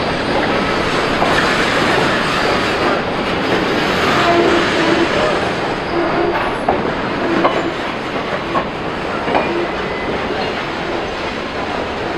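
A train rolling along the rails: a steady rumble and clatter of steel wheels, with short squealing tones in the middle.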